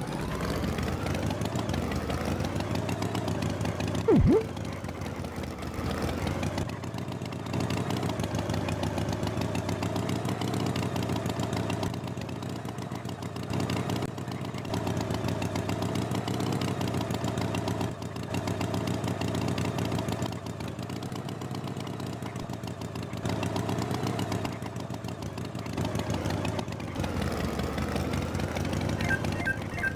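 Tractor engine sound running steadily, its loudness stepping up and down every few seconds, with a brief loud swooping tone about four seconds in.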